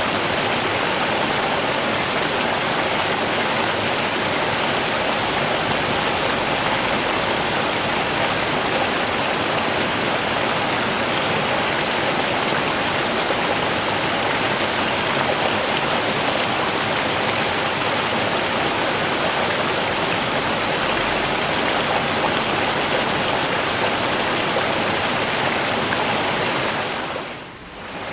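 River water flowing in a steady, even rush, with a brief dip in loudness near the end.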